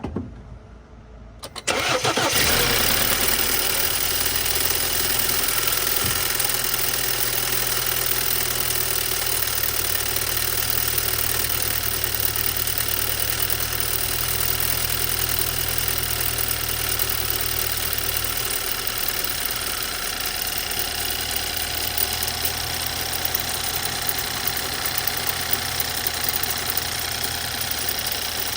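Cold start of a BMW N20 2.0-litre turbocharged four-cylinder: a brief crank, then the engine catches about two seconds in and runs at a high fast idle with a loud rattle, which the owner traces to a loose turbo wastegate actuator arm and flap.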